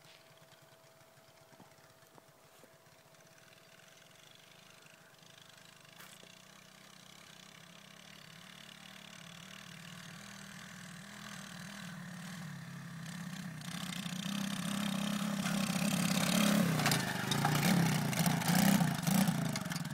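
125cc dirt bike engine running, faint at first and growing steadily louder, loudest near the end with uneven rises and falls in revs.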